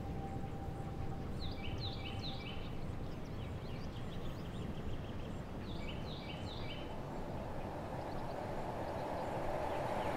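Outdoor field ambience with a steady background hiss, and a bird calling in two short bouts of quick repeated chirps, about a second and a half in and again about six seconds in. A faint steady tone fades out partway through, and a rushing swell builds near the end.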